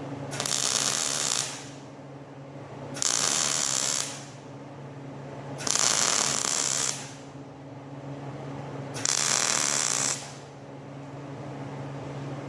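Four short bursts of welding crackle, each about a second long and about three seconds apart, over a steady low hum.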